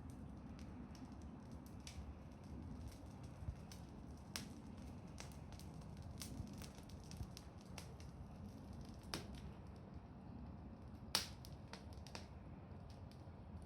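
Wood bonfire crackling: irregular sharp pops and snaps over a low steady rumble, with one louder pop about eleven seconds in.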